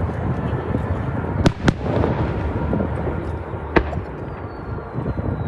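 Aerial fireworks exploding: a continuous rumble of bursts with sharp bangs twice about one and a half seconds in and again near four seconds. Near the end a thin whistle starts, falling slowly in pitch.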